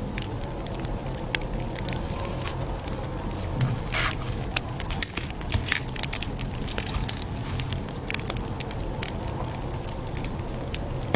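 Campfire crackling: irregular sharp pops and snaps over a steady low rumble of flames.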